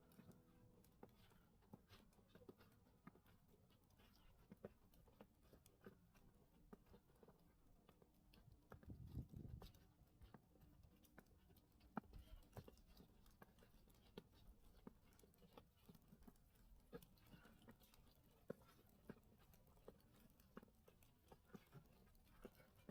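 Faint footsteps crunching in snow, soft irregular ticks about one to two a second, with a brief low rumble about nine seconds in.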